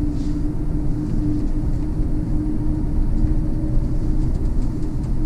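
Electric bus driving, heard from inside the cab: steady low road and drivetrain rumble with a constant hum.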